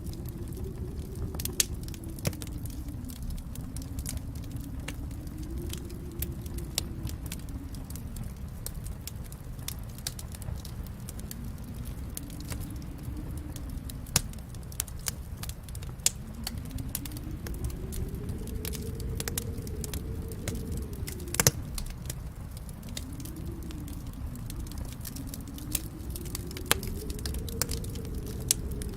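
Wood fire crackling in a fireplace: frequent sharp snaps and pops over a low rumble of flames that slowly swells and ebbs. One pop stands out louder about two-thirds of the way through.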